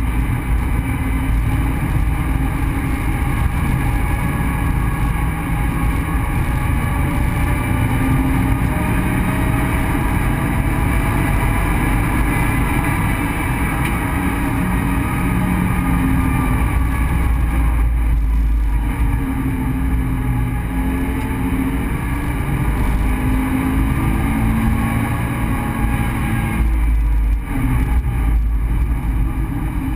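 Subaru BRZ's 2.0-litre flat-four engine heard from inside the cabin under hard driving, its pitch rising and falling with the throttle over steady road and wind noise. The engine note eases off briefly about two-thirds of the way through and again near the end.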